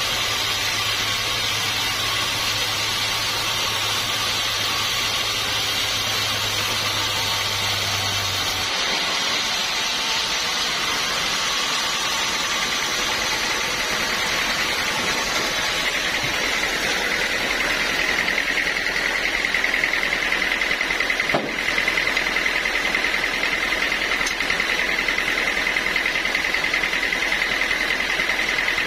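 Sawmill saw running steadily while sawing teak. A low hum drops out about a third of the way in, and a steady high whine sets in a little past halfway, with a single sharp click partway through.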